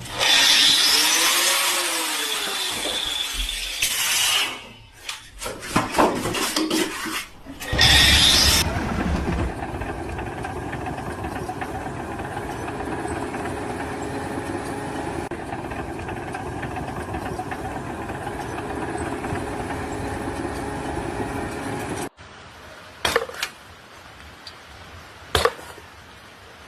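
A motor-driven machine. It is loud at first, with a whine that rises and falls, then runs steadily for about thirteen seconds and cuts off suddenly. A few sharp clicks follow.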